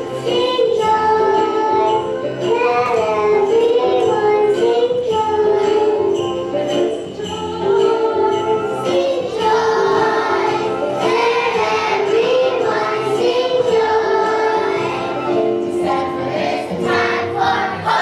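A children's choir singing a Christmas song over a recorded accompaniment, with jingle bells shaken to the beat.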